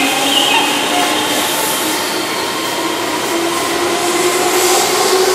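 Keihan Electric Railway commuter train running past along the platform: a steady rumble of wheels on rail with a whining tone that rises slightly in pitch.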